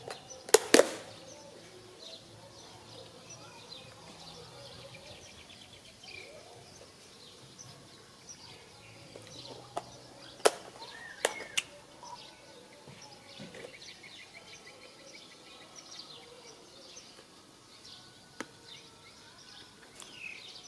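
Small birds chirping on and off over a faint outdoor background, with a few sharp clicks or knocks, the loudest just after the start and a cluster around the middle.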